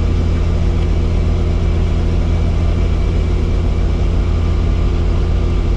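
Helicopter's engine and rotor running, a loud, steady low drone.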